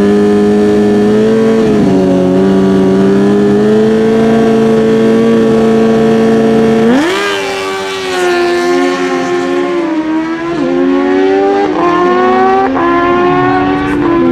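Naturally aspirated stock drag-bike engines held at steady high revs on the start line, then launching about seven seconds in. The revs climb and drop back with quick upshifts about once a second.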